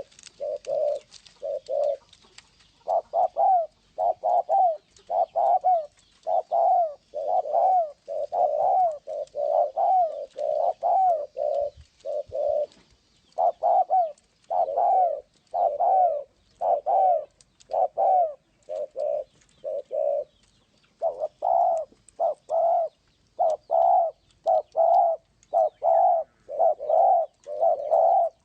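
Spotted dove cooing over and over in a decoy call recording, in quick runs of low, short coos with brief pauses about 2, 13 and 20 seconds in.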